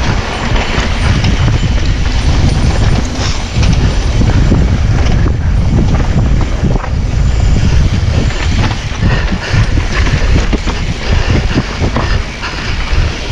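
Mountain bike rattling and knocking over a rocky trail, tyres and frame clattering with many short knocks, under heavy wind buffeting on the microphone.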